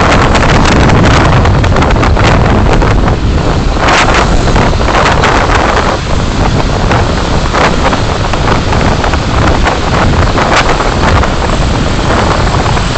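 Steady loud road and wind noise from a car being driven through city traffic, picked up by a dashcam microphone, with brief swells of noise about four seconds in and again near the end.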